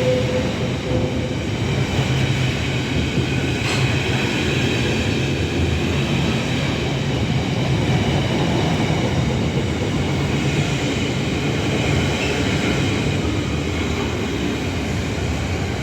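Class 66 diesel locomotive running steadily at the head of a freight train, its two-stroke V12 diesel engine giving a constant low drone.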